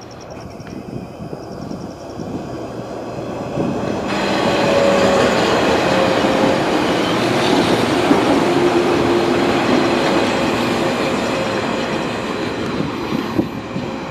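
Electric train running past at the station, its noise building over the first four seconds and then holding loud, with a few steady tones in it.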